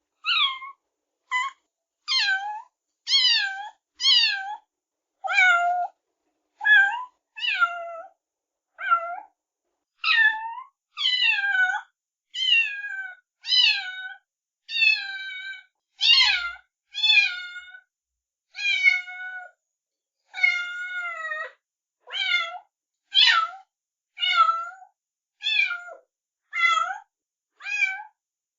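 A cat meowing over and over: about twenty short meows, one after another, each mostly falling in pitch, with brief silent gaps between them.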